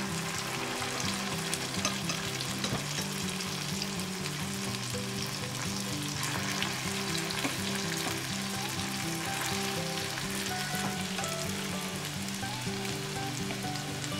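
Balls of instant rice porridge bound with egg deep-frying in hot oil in a non-stick pan: a steady sizzle full of fine crackles.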